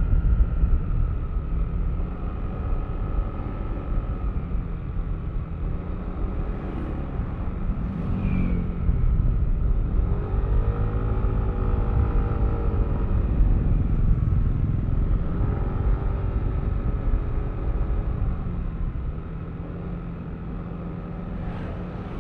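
Yamaha Aerox V3 scooter's 155 cc single-cylinder engine running under way, with heavy wind rumble on the microphone. The engine note rises and falls about halfway through, then eases to a quieter run near the end.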